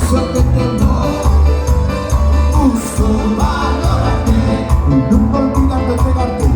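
Live cuarteto band music at a fast, steady beat: bass pulses, percussion strikes and keyboard/accordion melody, with little or no singing.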